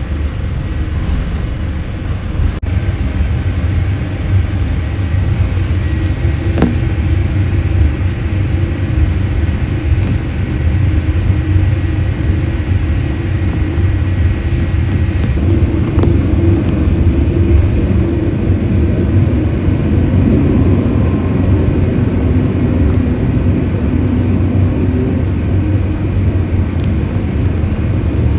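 Steady jet-engine and airflow rumble heard inside the cabin of a Boeing 787-8 airliner, swelling slightly in the first few seconds and then holding steady, with a few faint clicks.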